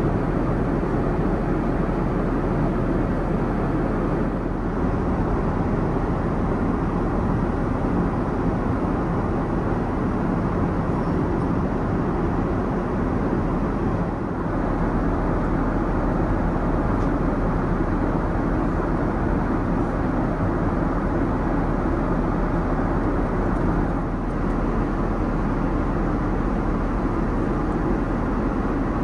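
Steady cabin noise of a Boeing 787-9 airliner in flight: an even rush of engine and airflow noise heard from inside the cabin, with no change in pitch.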